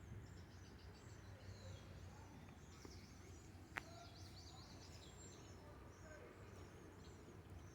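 Faint birdsong: many short, high chirps and trills from small birds over a low background rumble, with a single small click nearly four seconds in.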